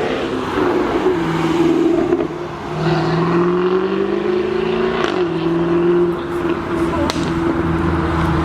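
Jaguar F-Type sports car engine running under way, its pitch climbing for about two seconds and then dropping back sharply about five seconds in before holding steady.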